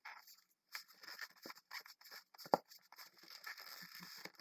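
A 260 chrome latex balloon being twisted and rubbed between the fingers, with an irregular run of rubbery squeaks and scrapes and one sharp louder sound about two and a half seconds in.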